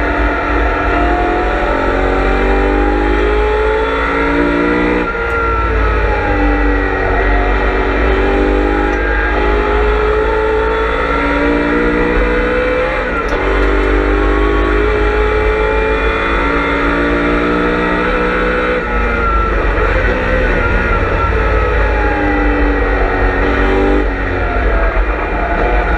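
V8 engine of a BMW M3 E92 race car heard from inside the car at racing speed. The engine note climbs steadily and then drops sharply several times, around 5, 13, 19 and 24 seconds in, as the car accelerates, shifts gear and brakes.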